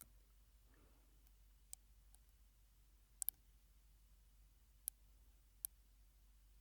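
Mouth sounds made through a drinking straw: sharp, isolated wet clicks and pops at irregular intervals, including a quick double click about three seconds in, with a faint breathy sound near the start.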